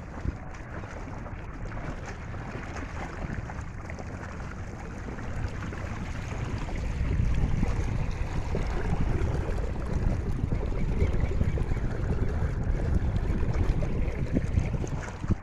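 Strong wind buffeting the microphone over choppy water, growing louder about halfway through.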